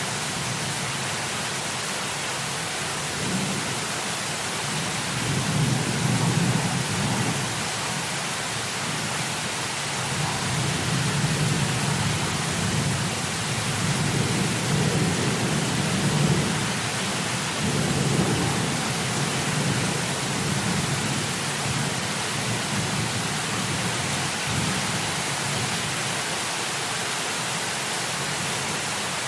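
Heavy rain falling in a steady hiss, with rolling thunder rumbling low in several swells through the middle stretch, then easing.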